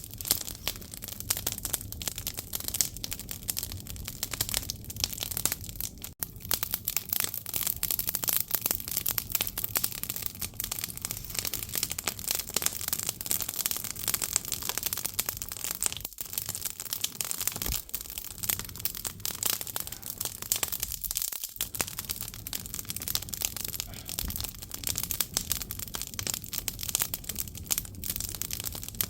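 Firewood burning in a traditional Korean agungi (wood-fired hearth), crackling and popping in a dense, continuous crackle.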